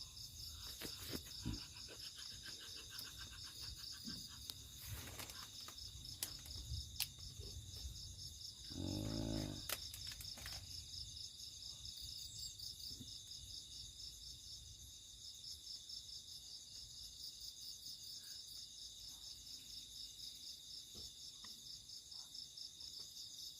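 Steady, fast-pulsing chirring of an insect chorus, fairly faint, with a few light clicks and one short low pitched sound about nine seconds in.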